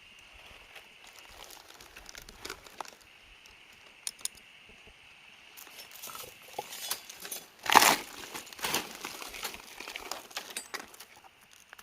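Rustling and crinkling handling noises with scattered small clicks, and one loud rustle about eight seconds in, over a steady high-pitched hum.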